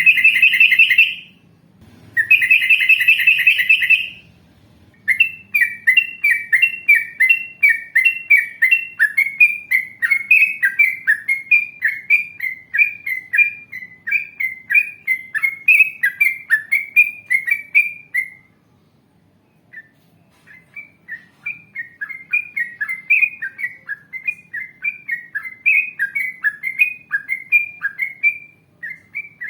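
Yellow-vented bulbul (trucukan) song: two loud harsh bursts of chatter, then a long rapid run of short, sharp slurred notes. The run breaks off for a couple of seconds about two-thirds through, then resumes.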